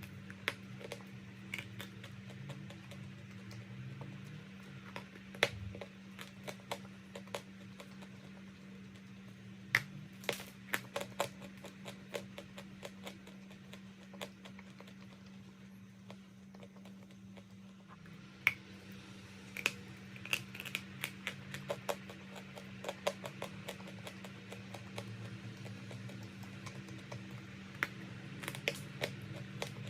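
Crunching chalk: irregular sharp, crisp clicks and crackles, bunched into clusters around ten seconds in, from about nineteen to twenty-four seconds, and again near the end, over a steady low hum.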